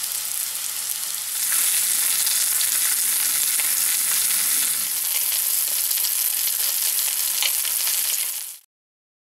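Grill patties and then halved kabanos sausages frying in oil in a pan: a steady sizzle that grows louder about a second and a half in and stops abruptly near the end.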